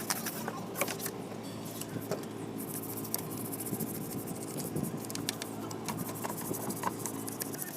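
A steady machine hum with a hiss and scattered clicks over it, cutting off just before the end.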